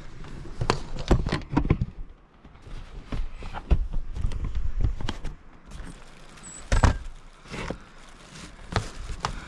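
Irregular knocks, taps and handling noises from work on the roof vent, with a sharper knock about a third of the way in and a louder one about two-thirds in.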